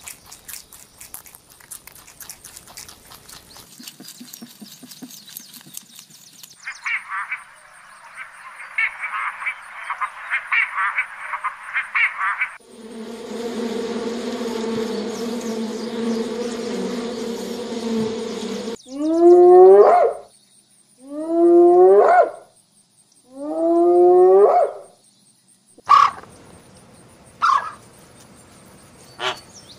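A run of different animal sounds. First comes faint crackling, then a rapid raspy rattle for about six seconds, then a bumblebee's steady low buzz for about six seconds. After that come three loud long calls, each rising in pitch, and near the end short honking calls of flamingos.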